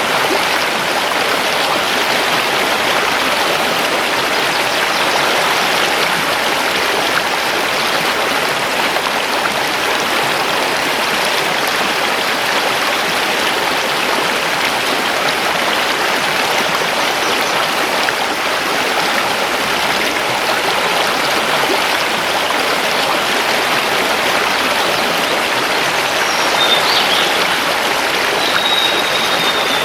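Mountain river rushing steadily over stones. Near the end, a bird gives two brief high calls over the water.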